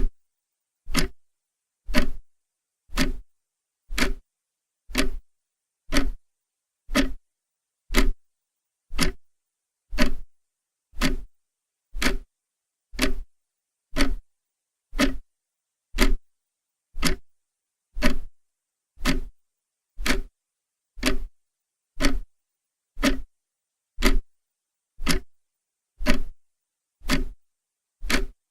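Clock ticking steadily once a second, each tick a short sharp click with silence between.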